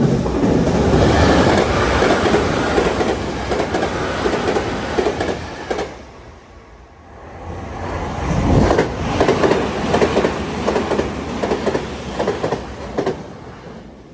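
Two Tokyu Meguro Line electric commuter trains pass at high speed over a level crossing, one after the other, with wheels clattering over the rails. The first pass dies away about six seconds in, and the second rises about eight seconds in with a run of rhythmic wheel clicks.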